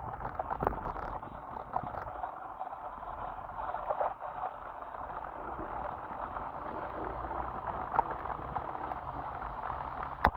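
Steady wet hiss and spatter of water from an electric scooter riding through rain on a wet surface, with scattered small clicks and a few sharp knocks.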